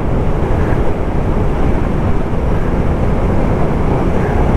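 Steady rushing noise of a Suzuki motorcycle riding at speed: wind on the microphone mixed with engine and tyre noise.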